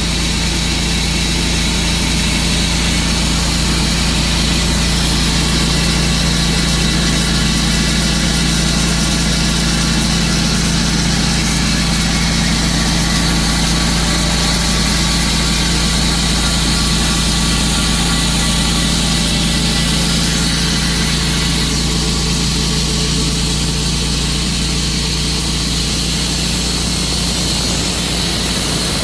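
Tru-Cut sawmill's engine running steadily at an even pitch, with a deep low drone.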